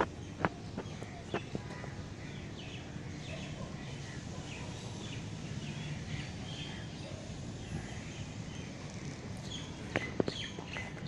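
Small birds chirping in quick repeated short notes over a steady background hiss, with a few sharp clicks near the start and again near the end.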